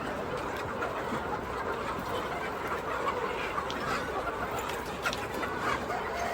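A flock of chickens clucking, with short, scattered calls.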